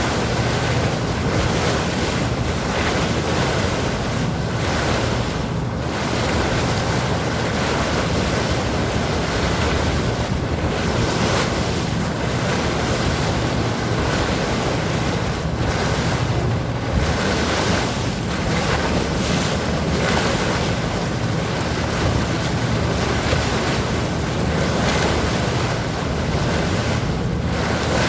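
Sea water rushing and splashing against a moving boat with wind buffeting the microphone, over a steady low drone. The sound swells and eases slowly.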